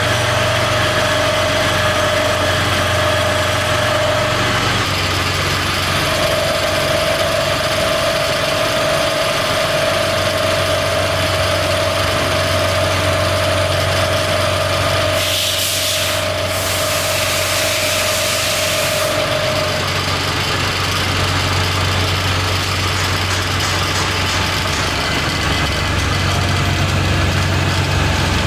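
Piston-factory machinery running steadily: a low hum under a steady whine that drops out briefly about five seconds in and stops at about twenty seconds. About fifteen seconds in, a loud hiss lasts about four seconds.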